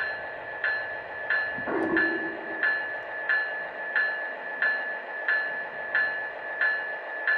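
O scale three-rail model freight train running, with a Lionel sound boxcar in the consist. Its small speaker plays an even, rhythmic thump about one and a half times a second over a steady high whine, and a lower tone joins in briefly about two seconds in.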